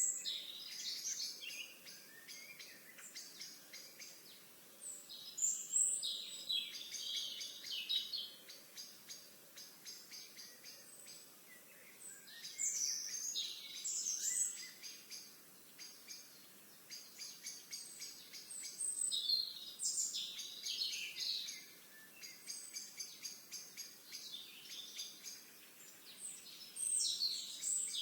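Songbirds singing: a loud song phrase comes back about every six or seven seconds, with fast, even trills between the phrases.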